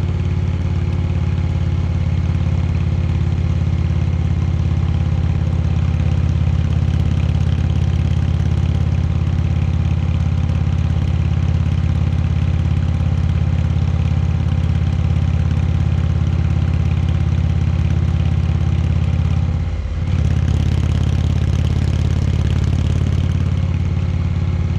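Indian Chieftain Dark Horse's air-cooled V-twin engine running at a steady, even pitch, with a brief dip about twenty seconds in.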